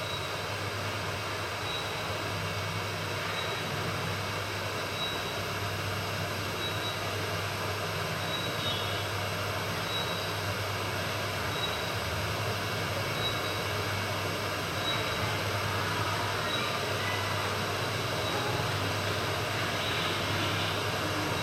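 Swirl-airflow hot air rework station blowing steadily with its fan at full speed: a constant rushing hiss with a low hum underneath.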